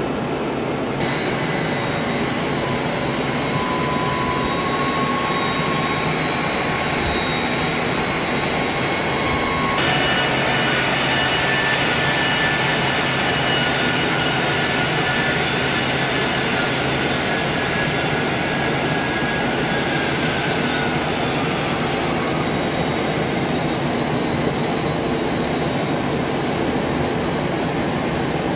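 Jet airliner engines running: a steady rush with a high whine over it. The sound changes abruptly about a second in and again near ten seconds, and the whine falls slightly in pitch around twenty seconds in.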